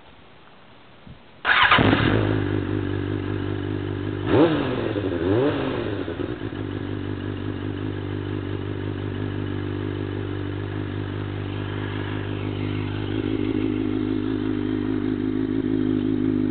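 2005 Suzuki GSX-R600's inline-four engine through an aftermarket Micron exhaust, starting up suddenly about a second and a half in. The throttle is blipped twice, then the engine settles into a steady idle.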